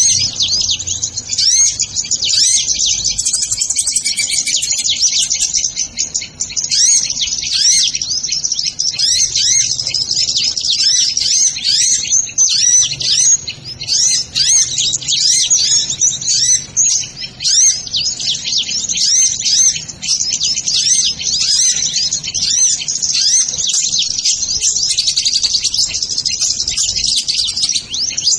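Sunbirds (kolibri ninja) chirping: a dense, continuous run of rapid, high-pitched chirps and short twittering glides.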